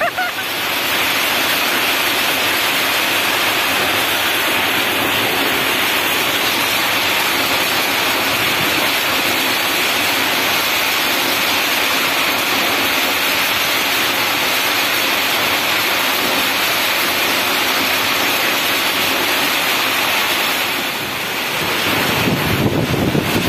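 Heavy storm rain pouring down onto open water, a steady dense hiss. Near the end, wind gusts buffet the microphone.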